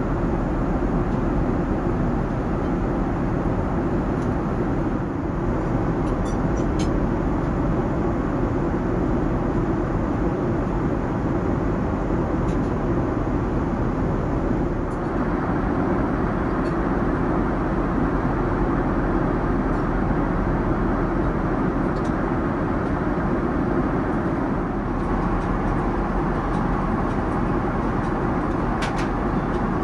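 Steady rumble and hiss of jet cabin noise inside a Boeing 787-9, growing slightly brighter about halfway through.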